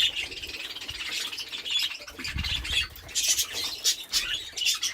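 A group of budgerigars chattering and squawking continuously, many short high-pitched calls overlapping.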